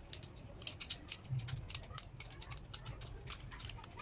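Irregular light clicks and taps, several a second, over a low steady hum, with a couple of brief high squeaks.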